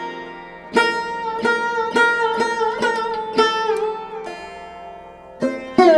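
Background music on a plucked string instrument: single notes plucked every half second or so, each ringing and fading, some bending in pitch, over a steady drone. It goes quiet for about a second and a half before two fresh plucks near the end.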